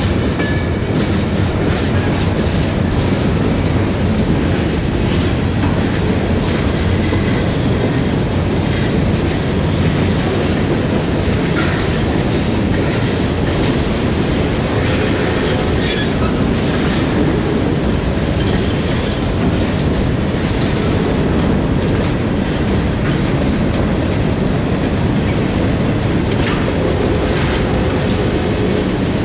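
Freight cars of a slow-moving freight train rolling past: a steady rumble of steel wheels on rail with irregular clicking over the rail joints and, now and then, a faint high squeal from the wheels.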